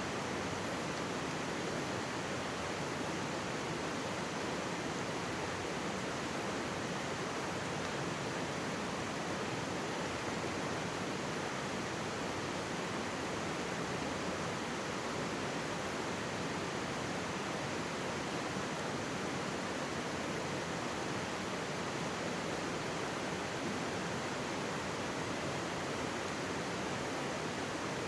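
Mountain stream babbling close by: a steady, even rush of flowing water.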